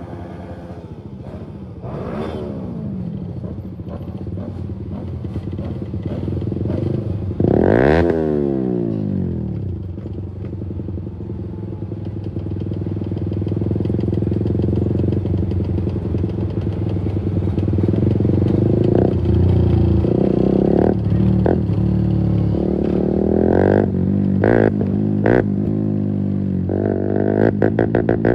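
Keeway RKF 125's single-cylinder four-stroke engine running loud through a Mivv exhaust with the dB killer removed, under way. The engine note climbs and drops sharply about eight seconds in, and there are several quick rev blips in the last ten seconds.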